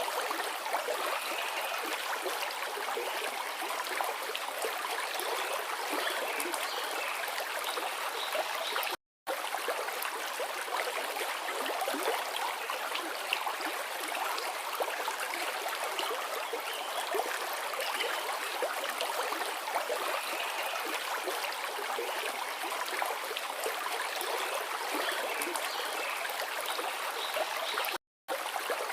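Forest river flowing: a steady rush and babble of water over stones, with the sound cutting out to silence for a split second twice.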